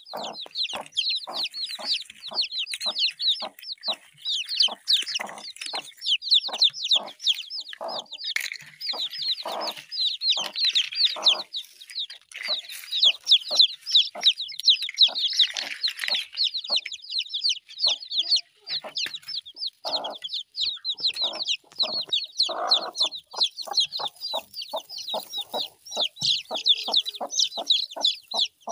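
Chickens calling without a break: a dense stream of short, high-pitched, falling peeps over many short, lower clucks.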